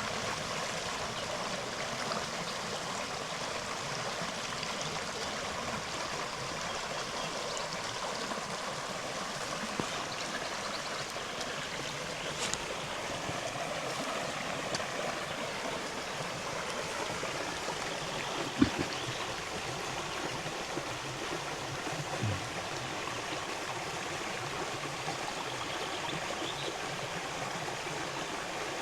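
A shallow river flowing and rippling over stones, a steady rushing. A single sharp click stands out about two-thirds of the way through, with a few fainter ones elsewhere.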